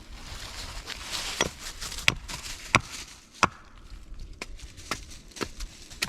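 Wood being chopped: a regular series of sharp chopping strokes about two thirds of a second apart, the first four loudest and the later ones lighter.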